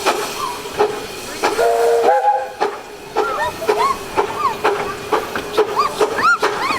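Moving miniature steam train: wheels clicking over rail joints at a steady rhythm, and the locomotive's chime whistle sounding one short blast of several pitches together about a second and a half in. From about three seconds on, a run of short rising-and-falling squeals grows louder.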